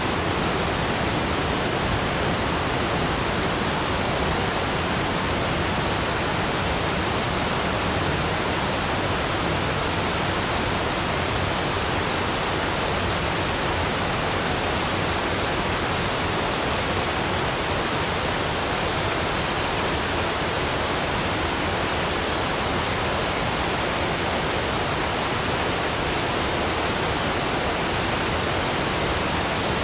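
Waterfalls cascading: a steady, even rush of falling water that does not change.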